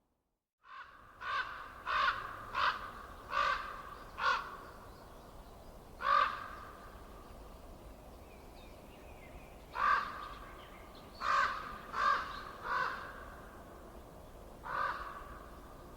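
A bird calling, about a dozen short calls in runs of several with pauses between, over a faint steady low rumble. The sound cuts in abruptly after a moment of dead silence at the start.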